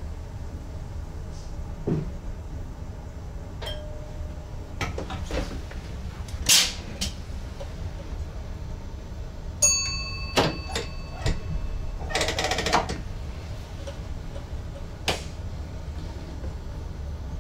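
Cab of an ICM electric train running along the track: a steady low rumble with scattered clicks and knocks, and a ringing chime that starts about ten seconds in and fades over a couple of seconds.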